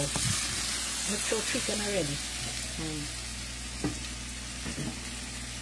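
Food frying in hot oil in a pan: a steady sizzle, with brief low voices about one to three seconds in.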